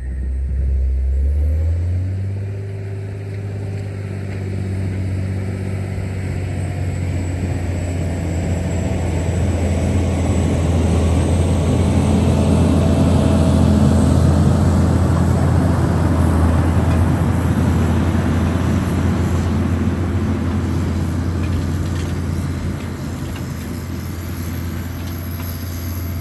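John Deere 670 GP motor grader's diesel engine running steadily at work, a low drone that grows louder towards the middle and eases off near the end.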